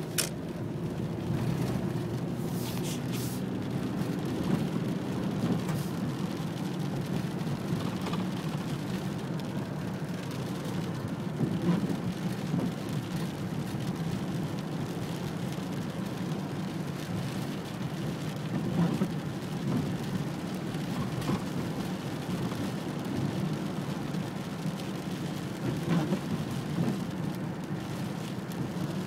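Steady rain with a low, continuous rumble under it that swells slightly now and then.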